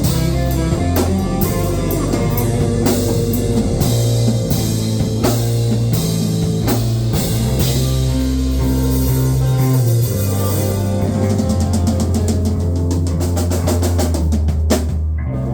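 Rock band playing a song with guitar and drum kit over held low notes. Near the end a last drum hit stops the beat, leaving the notes ringing.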